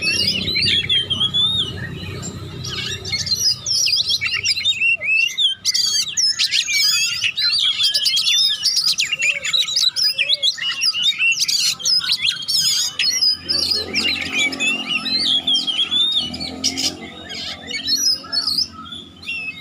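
Oriental magpie-robin singing a fast, unbroken stream of varied chirps and whistles, the rapid 'konslet' style of song.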